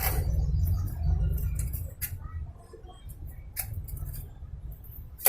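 Small clicks and light metallic clatter of parts and tools being handled, over a low rumble that fades after about two seconds, ending in one sharp click.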